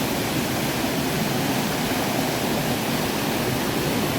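Steady rush of a river waterfall close by, an even roar of falling water.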